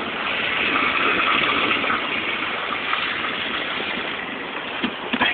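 Heavy rain pelting the car, a steady rushing hiss heard from inside the cabin, with a few sharp knocks near the end.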